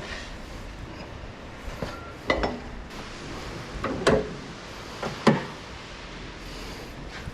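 Several separate metallic clanks and clinks, a second or more apart, the loudest near the middle and about five seconds in.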